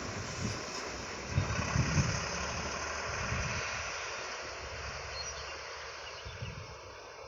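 Road traffic at a roadside: vehicle engines rumbling and tyre noise, swelling briefly about a second and a half in, then easing off.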